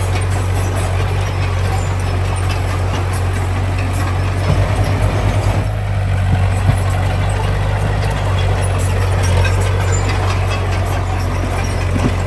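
Heavy earthmoving machine's diesel engine running steadily with a deep hum, with a brief pulsing surge about four to five seconds in.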